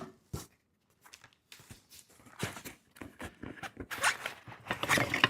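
Loose cedar beehive frame pieces knocking and scraping against each other and the box as they are lifted out. A few knocks come at the start, there is a mostly quiet second, and then a denser run of handling knocks and scrapes follows from about two seconds in.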